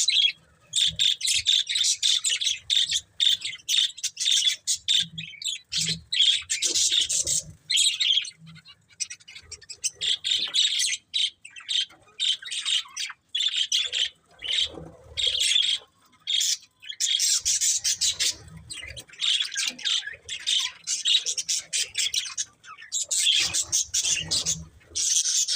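A pair of budgerigars chirping and chattering almost without pause: fast, high twittering broken by short gaps.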